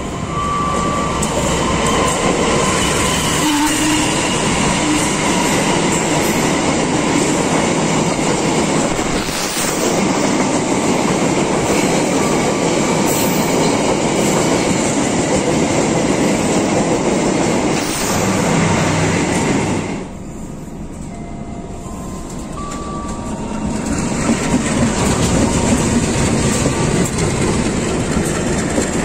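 Ciremai passenger train's coaches rolling close past a station platform during shunting, a steady loud noise of wheels running on the rails. The noise dips for a few seconds about two-thirds of the way through, then builds again.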